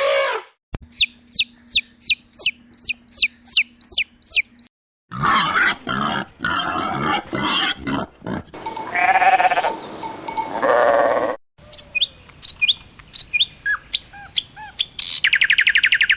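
A sequence of short animal sound clips: a run of rapid, high, repeated chirps, then bleating livestock calls with a wavering pitch, then scattered clicks and chirps and a fast buzzing trill near the end.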